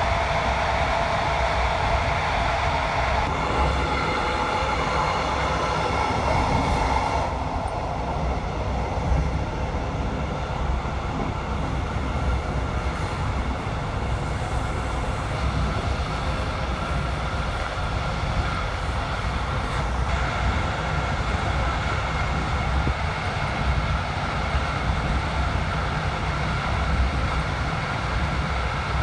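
Passenger train running on the rails: a steady, continuous rumble, with a higher hum over it that fades out about seven seconds in.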